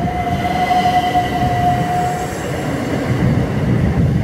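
Southern Class 377 electric multiple unit moving past the platform close by: a low rumble from the coaches with a steady high whine that stops about two seconds in.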